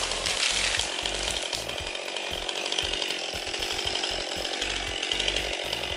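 Chainsaw running steadily at high revs.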